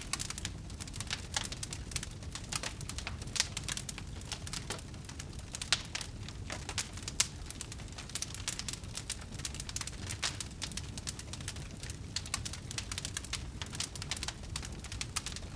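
Wood fire burning in a fireplace, crackling and popping irregularly over a steady low rumble, with a few sharper pops standing out.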